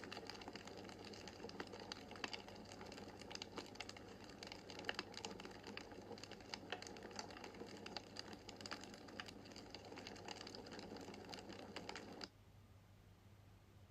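Wood fire crackling in a fireplace: many small, sharp crackles and pops over a soft hiss. The crackling cuts off suddenly near the end, leaving only a faint low hum.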